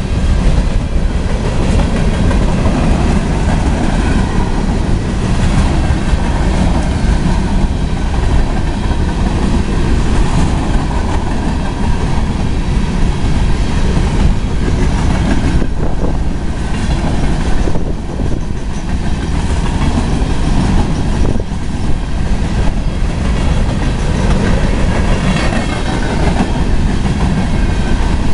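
CSX coal train's open-top gondola cars rolling steadily past: a loud continuous rumble of steel wheels on the rails, broken by occasional sharp clacks from the wheels.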